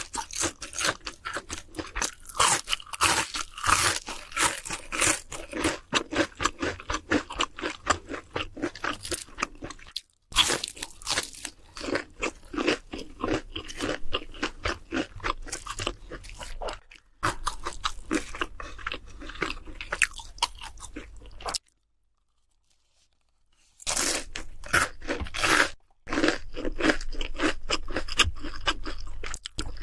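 Close-miked crunching and chewing of crisp fried food (pork cutlet, tempura or fried chicken), many rapid crackling bites, with a few short silent breaks.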